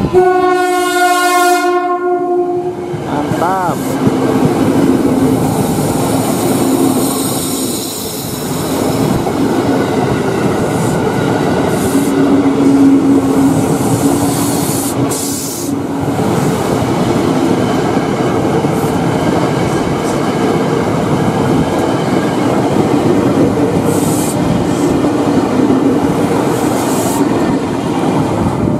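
Tokyo Metro 6000 series electric commuter train sounding its horn, one held chord of about three seconds, as it reaches the camera. It then passes close by with a steady loud rumble of wheels on rails and a clatter over the rail joints.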